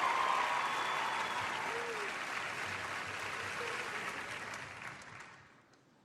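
Theatre audience applauding, the applause fading out gradually and dying away near the end.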